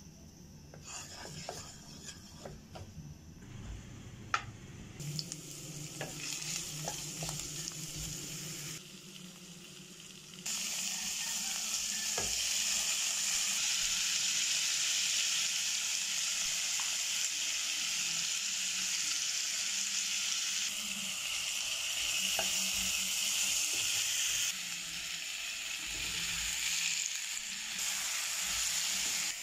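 Vegetables sizzling as they stir-fry in hot oil in a nonstick frying pan, with a few sharp clicks early on. About ten seconds in the sizzle jumps much louder and then runs steadily.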